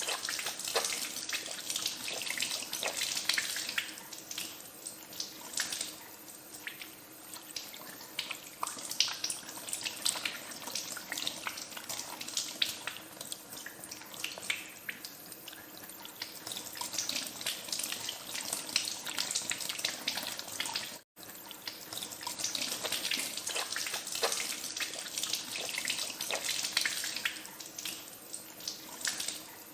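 Tap water running into a sink while hands are washed under it, with many small splashes. The sound drops out for an instant about two-thirds of the way through, then carries on.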